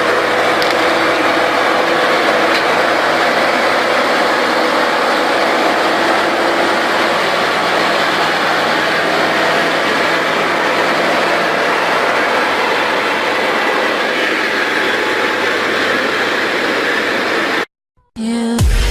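Diesel engine of heavy earthmoving equipment running steadily. It cuts off abruptly near the end, and electronic music starts.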